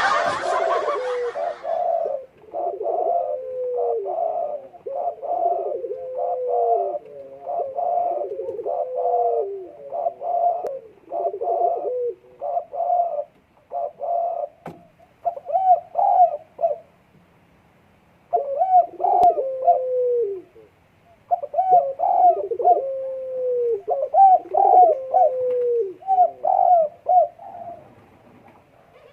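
Puter dekukur dove cooing in repeated phrases, each ending in a falling note, with a short break about two-thirds of the way in. This is the excited cooing of a dove in breeding condition.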